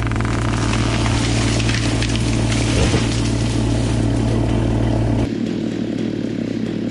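Heavy engines running in a steady, loud drone. The deep low part of the drone cuts off suddenly about five seconds in, leaving a lighter engine sound running.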